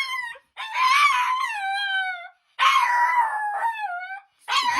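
A pet howling: two long calls, each sliding down in pitch, with a short break between them and a third call beginning near the end.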